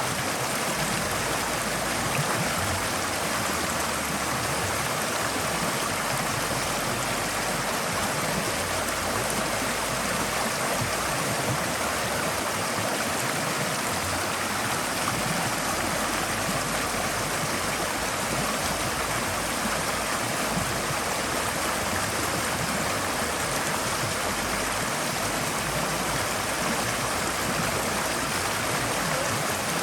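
Forest stream flowing over rocks: a steady rush of running water, with no changes.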